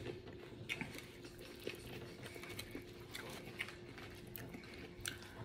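Faint close-up chewing of a turkey burger and fries, with a few soft mouth clicks and smacks scattered through, over a faint steady hum.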